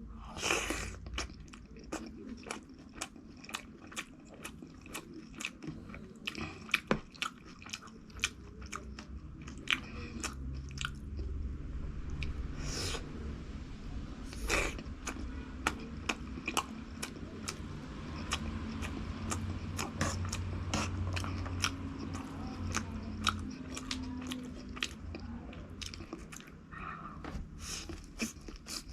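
Close-miked eating: a person biting and chewing crunchy food, with many irregular crisp crunches over wet mouth sounds.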